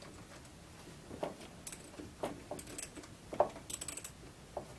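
Light metallic clicks and clinks of a wrench and bolt hardware as a battery ground cable is bolted down. There are single clicks a second or so apart, then a quick run of clicks a little before the end.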